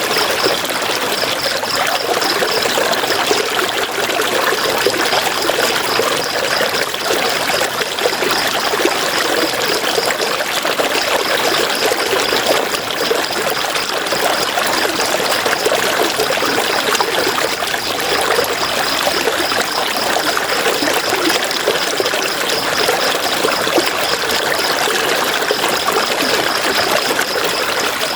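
River water flowing steadily over rocks, an unbroken rushing and splashing. A high, fast-pulsing chirr runs through it, pausing twice.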